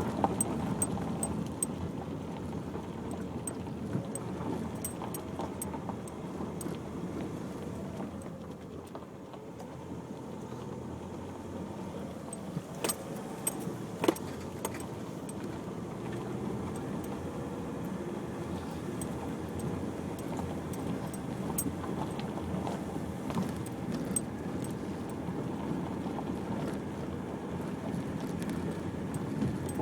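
Cabin noise of a Nissan X-Trail driving slowly over a rough unsurfaced track: a steady engine and tyre rumble with frequent small rattles and clicks as the car jolts, and one sharper knock about halfway through.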